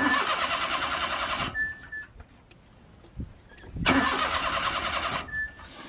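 A car's starter motor cranking the engine in two bursts of about a second and a half, a few seconds apart, with a fast even rhythm. The engine does not catch. A short high whine follows each burst.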